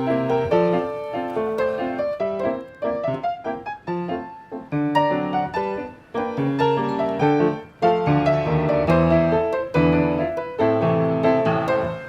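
Background piano music: quick runs of notes and chords played at a lively pace.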